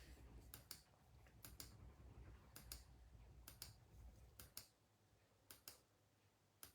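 Faint clicking at a computer: short, sharp clicks in pairs, about one pair a second.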